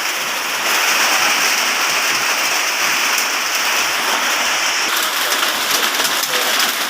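Heavy rain falling in large drops, a steady hiss; from about halfway through, separate drops can be heard ticking on a surface.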